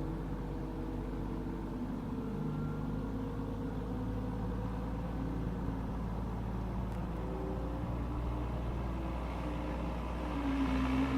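An engine running steadily with a low hum, its pitch shifting slightly. It grows louder about ten and a half seconds in.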